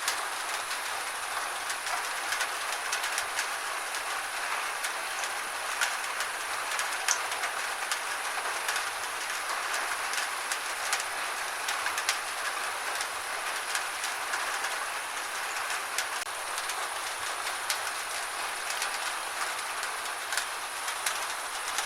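Steady gentle rain falling, an even hiss with a constant scatter of small drop ticks.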